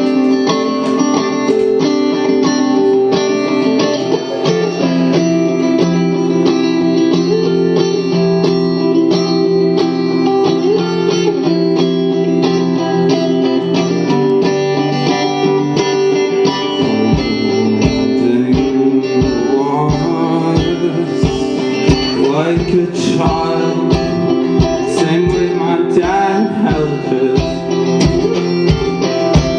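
A band playing live, with guitars holding chords. Just over halfway through, a steady low beat of about two a second comes in.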